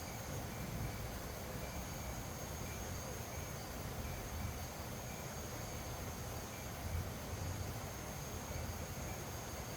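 Wind blowing ahead of rain, rumbling unevenly on the microphone, with insects calling steadily in the background and a faint chirp repeating at an even pace.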